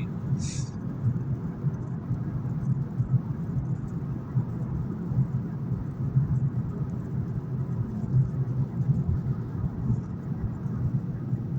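Steady low road and engine noise of a car driving at highway speed through a long tunnel, heard from inside the car.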